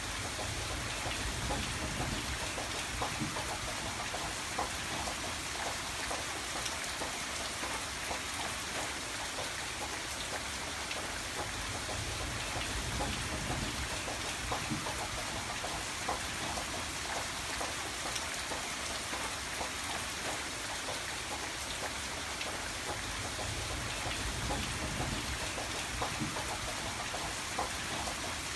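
Steady rain falling, with dense patter of drops striking a surface and a low rumble that swells and fades every few seconds.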